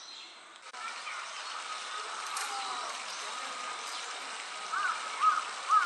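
Steady outdoor background noise with a faint steady tone. From about five seconds in, a bird calls a series of short, loud, arched notes, about two a second.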